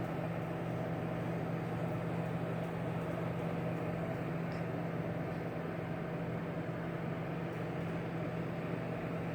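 Sharp Carousel microwave oven running: a steady low hum over even fan noise, with no change throughout.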